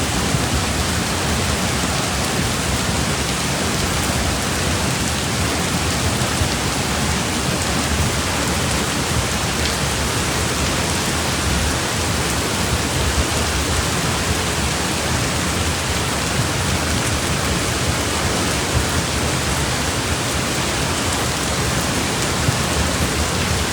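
Heavy monsoon rain falling, a steady, loud hiss that does not let up.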